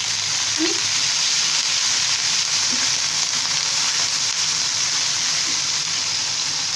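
A pan of hot oil with browned chopped onions and green chillies sizzling loudly and steadily, with a water-on-hot-oil hiss as a little water has just been added to the pan.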